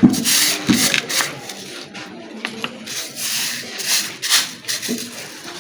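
Hard stone striking the face of a stone grinding stone in irregular sharp knocks, about one or two a second: pecking to roughen and re-sharpen its worn, hollowed surface.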